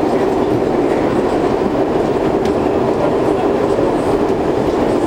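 R62 subway car running at speed, heard from inside the car: a steady loud rumble of wheels on rails with faint clicks over the rail joints.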